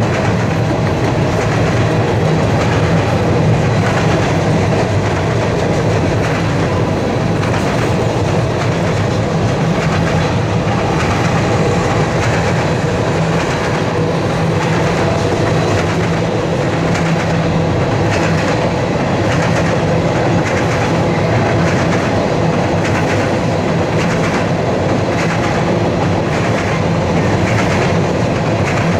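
Freight train of tank cars rolling steadily across a steel trestle viaduct: a continuous rumble with the rhythmic clickety-clack of wheels over the rail.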